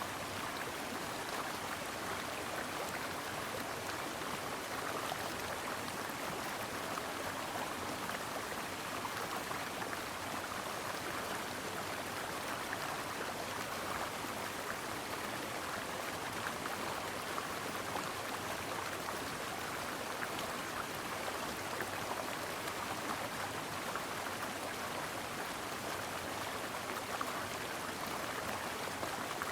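Shallow brook flowing over rocks: a steady, even babble of running water with fine splashing detail.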